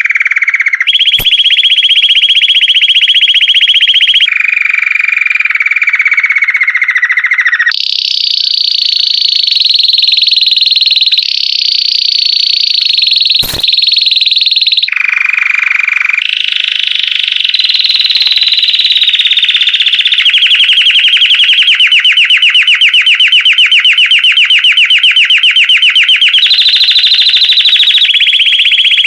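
Belgian canary singing a continuous song of rapid trills. Each trill is held for a few seconds, then the song jumps to a new pitch, some phrases sliding slightly down.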